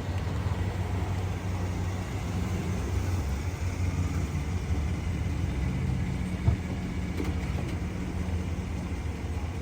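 An engine running steadily with a low hum, and a single sharp click about six and a half seconds in.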